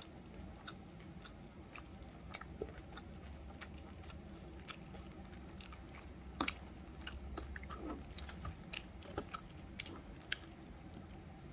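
A person chewing food close to the microphone: soft, irregular mouth clicks and smacks, eating noisily in mukbang/ASMR style.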